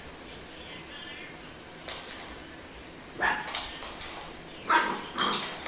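Dog barking: a few short, sharp barks in the second half.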